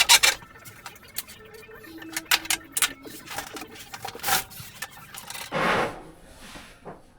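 Clicks, knocks and rattles of parts and tools being handled while a dishwasher is fitted, with a longer rushing sound about five and a half seconds in.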